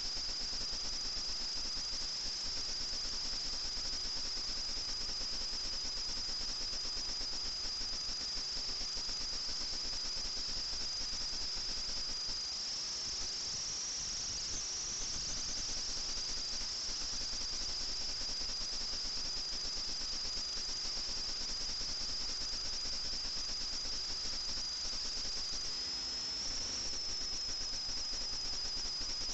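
FPV drone's motors and propellers running with a steady high-pitched whine over hiss, the pitch rising slightly twice, halfway through and near the end, as the throttle changes.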